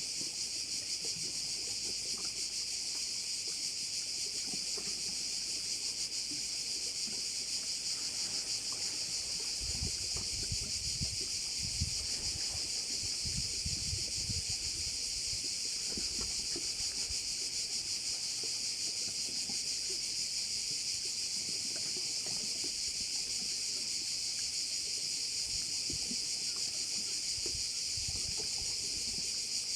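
Dense, unbroken chorus of crickets shrilling high and steady, with no break or pulse in it. A low rumble comes and goes about a third of the way in, and again briefly near the end.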